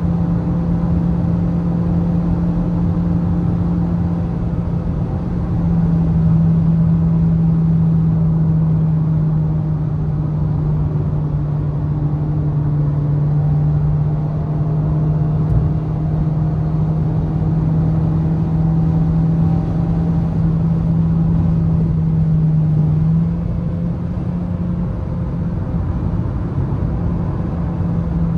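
Toyota Vios engine pulling at fairly steady revs under road and tyre rumble while driving. The engine note gets a little louder about a fifth of the way in, then eases near the end.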